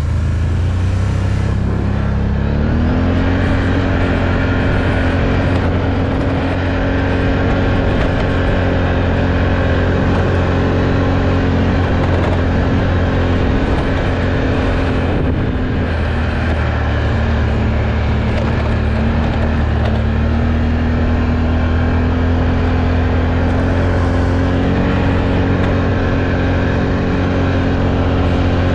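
Off-road vehicle engine running steadily while riding a mud trail. It picks up speed about two seconds in, eases off around fifteen seconds, then climbs again after about twenty seconds.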